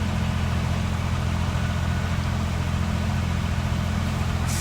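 Heavy diesel engine of a concrete pump truck running steadily at high revs under pumping load, with a short hiss near the end.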